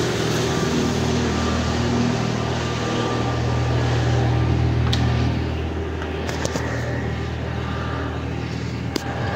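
A vehicle engine idling with a steady low hum that eases slightly about halfway through. A few sharp clicks and knocks come near the middle and just before the end.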